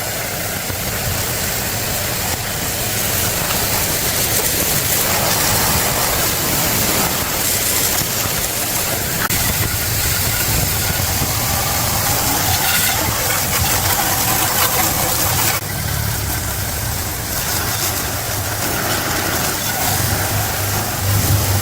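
A motor-driven machine running steadily and loudly, a low hum under a broad hiss, dipping briefly and changing tone about two-thirds of the way through.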